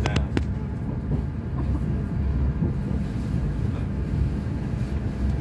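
c2c Class 720 electric multiple-unit train running, heard from on board: a steady low rumble with a faint steady hum, and a few sharp clicks at the very start.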